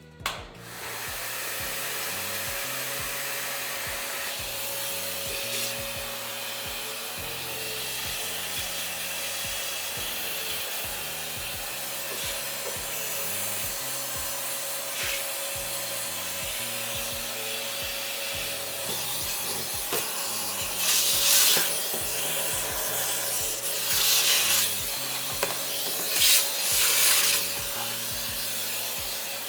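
Steady scraping and rubbing of stove or chimney cleaning, with three louder bursts of scrubbing about two-thirds of the way in. Background music with a stepping bass line plays underneath.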